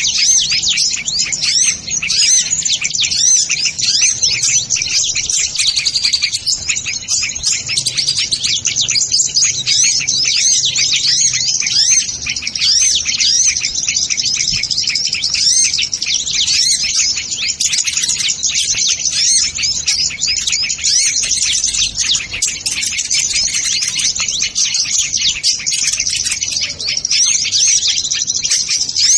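Dense, continuous high-pitched chirping and twittering of kolibri ninja sunbirds, many quick notes overlapping without a break, as used to lure the birds.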